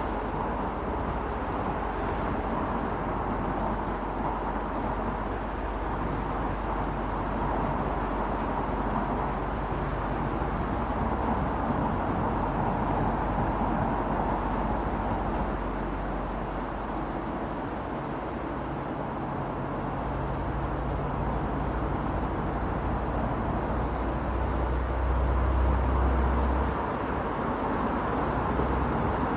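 Car driving on an expressway heard through a roof-mounted camera's microphone: a steady rush of tyre and wind noise. A deeper low rumble builds in the second half, is strongest about 25 seconds in, then drops away.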